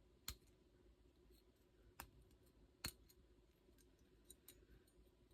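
A few faint, sharp clicks of small metal cornet valve parts being handled during reassembly, the clearest three within the first three seconds.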